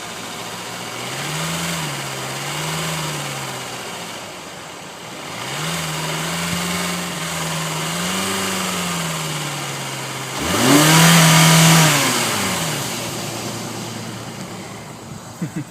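Hyundai 2.4-litre direct-injected four-cylinder engine revved several times from idle: two short blips, a longer held rise, then a sharper, louder rev about ten seconds in that falls back to idle. The engine is noisy, with lifter tapping that the owner says is bad.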